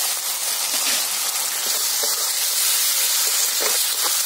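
Onion and spice masala with mustard and poppy seed pastes frying in hot mustard oil in a steel karahi, a steady sizzling hiss as it is stirred with a spatula.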